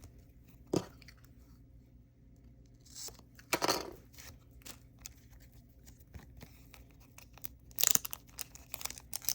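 Packaging being handled by hand, crinkling and tearing in a few short bursts, the longest about three and a half seconds in, as trading cards are unpacked.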